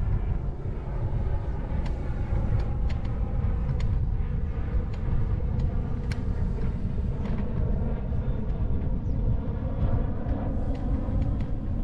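Wind and rolling noise on a bike-mounted 360 camera's microphone while cycling: a steady deep rumble with scattered light clicks and rattles.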